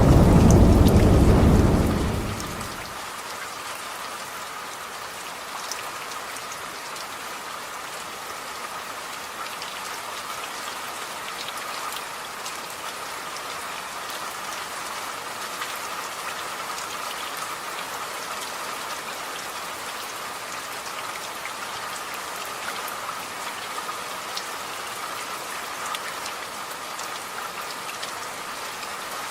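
Steady rain falling, with scattered drops ticking on a surface. A loud low rumble of thunder dies away over the first two or three seconds.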